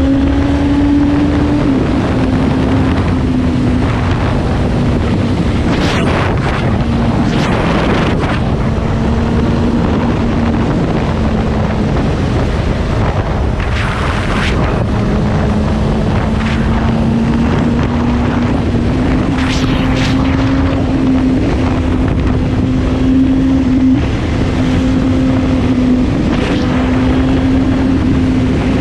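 Suzuki GSX-S750's inline-four engine running at a steady highway cruise. Its note sags slightly and then rises again, under heavy wind noise on the microphone, with a few brief whooshes.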